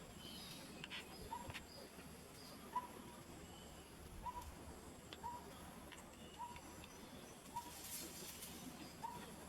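Faint bird calls: a short, clear note repeating about once a second, with a few thin, higher chirps scattered between.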